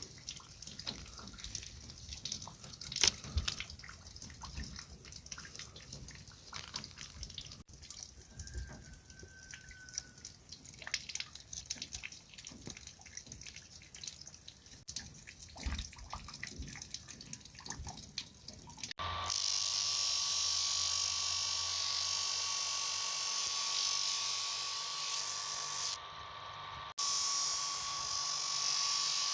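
Irregular light scraping and tapping of hand work on metal. About two-thirds of the way in, a small electric power tool starts and runs steadily with a constant whine, dipping briefly near the end.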